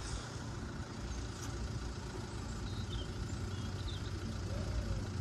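Steady low hum of a road vehicle's engine idling.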